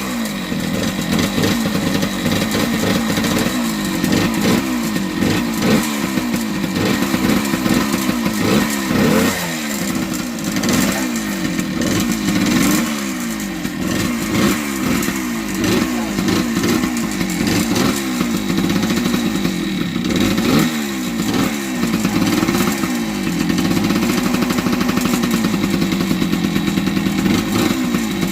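A 1978 Yamaha DT100's two-stroke single-cylinder engine being ridden, its pitch rising and falling again and again as it revs up and eases off, then holding steadier for the last few seconds.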